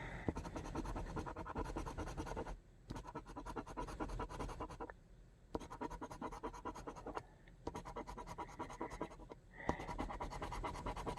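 Scratch-off lottery ticket being scratched in quick, faint scraping strokes to uncover its hidden symbols, with three short pauses between bursts of scratching.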